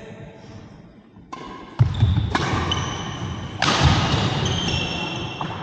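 Badminton doubles rally on an indoor court: a run of sharp racket hits and heavy footfalls, starting after about a second, with short high-pitched shoe squeaks on the court floor.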